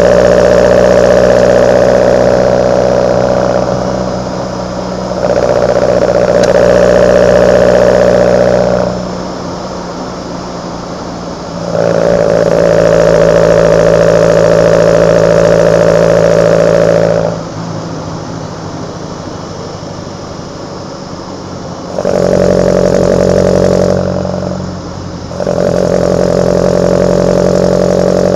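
Kadett GS 16v's four-cylinder engine breathing through twin side-draft Solex carburetors, the intake noise swelling five times for a few seconds as the throttle opens and dropping back between, with engine speed staying about steady.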